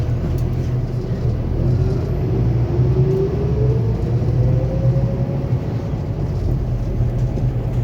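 Scania K280UB city bus under way: its five-cylinder diesel rumbles steadily while a whine rises in pitch over a few seconds as the bus picks up speed, then levels off and fades.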